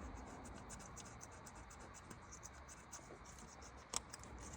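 Faint scratchy scrubbing as an engine surface is cleaned by hand, with one sharp click about four seconds in.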